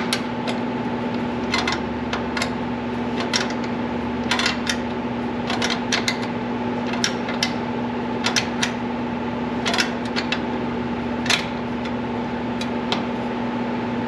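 Irregular sharp metallic clicks and taps of wrenches working a brake line fitting, over a steady background hum.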